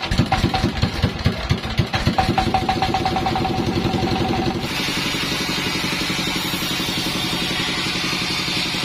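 Sawmill engine running up: heavy, evenly spaced firing pulses that come faster over the first few seconds and settle into a steady run. About halfway through, a loud steady hiss joins in.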